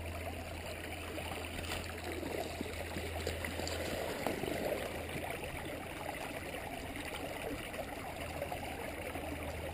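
Small rocky creek flowing steadily, water running over stones in its bed.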